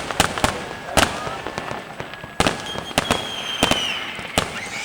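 New Year fireworks bursting: a rapid, irregular series of sharp bangs over a faint crackle, with a thin whistling tone about three seconds in.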